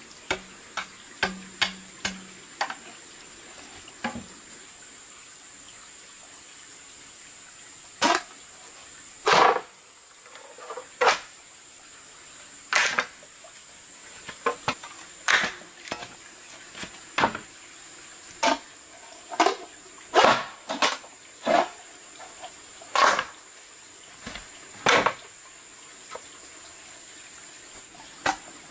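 A series of sharp knocks at irregular intervals, roughly one every one to two seconds, over a steady thin high-pitched tone.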